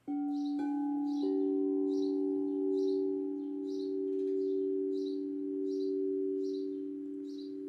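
Singing bowls struck and left ringing: two steady low tones that waver gently in loudness, the second joining about a second in. Over them a songbird repeats a short high chirp about once every 0.7 seconds.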